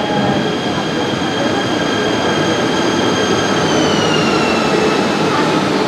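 KTM ETS electric multiple-unit train pulling into the platform: rumbling wheels and body noise with a high electric whine that drops in pitch about four seconds in as the train slows.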